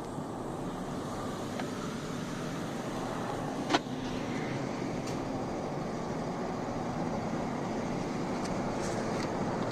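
A vehicle's engine running steadily, with a single sharp click a little under four seconds in.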